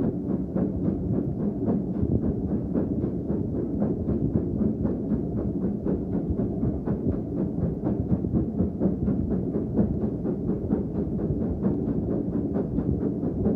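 Steam train under way: a steady low rumble with an even rhythmic beat about four times a second.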